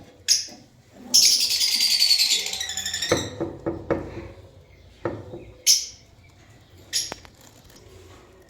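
Albino masked lovebirds chattering: a loud run of rapid, shrill chirps lasting about two seconds, followed by single sharp chirps a second or so apart.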